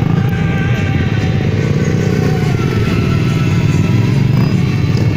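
Motorcycle engines of a passing group of bikes, running steadily and without a break.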